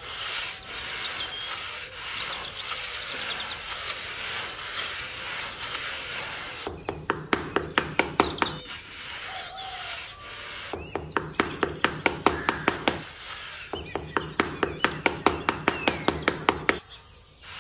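Metal pointed trowel scraping across sand: a steady gritty rubbing at first, then three runs of quick back-and-forth strokes, about four or five a second, with short pauses between them.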